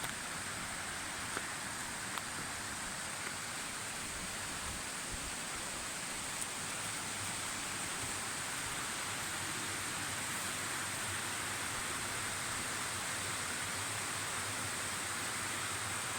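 Steady rush of flowing mountain stream water, growing slightly louder about seven seconds in, with a few faint ticks in the first seconds.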